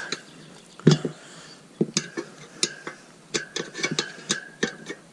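Metal tyre levers knocking and clicking against a motorcycle wheel rim as a tyre is levered on by hand: one sharp knock about a second in, then a string of scattered clicks and clinks.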